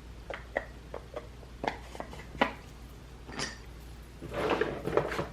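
Small hard clicks and clacks of makeup cases and compacts being picked up and set down, about eight quick taps in the first two and a half seconds, then a rustling shuffle near the end.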